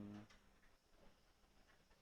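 A low, steady hummed note from a man's voice cuts off about a quarter second in, leaving near silence with a few faint ticks.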